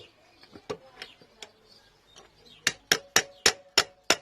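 Hammer tapping on a screwdriver set against a universal joint bearing cap, driving the cap out of the drive shaft yoke. A few light taps come first, then, from about two-thirds of the way in, a steady run of sharp metal strikes about three a second, leaving a faint ring.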